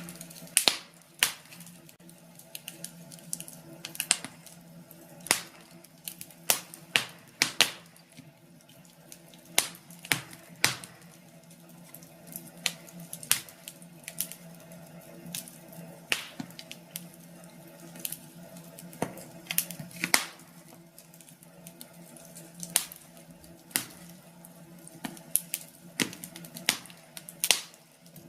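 Wood fire in a fireplace crackling: irregular sharp pops and snaps, one or two a second at varying strength, over a faint steady low hum.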